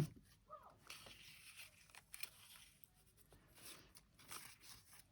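Faint rustling and crinkling of magazine paper and cutouts being handled, with a few small clicks, the sharpest about two seconds in.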